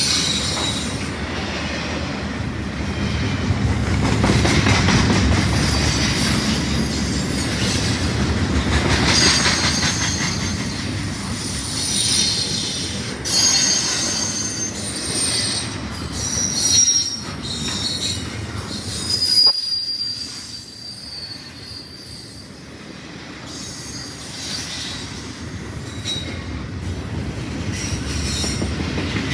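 Freight train rolling past with a steady rumble, its wheels squealing against the rails in several high-pitched squeals through the middle of the passage. The rumble eases after about 20 seconds.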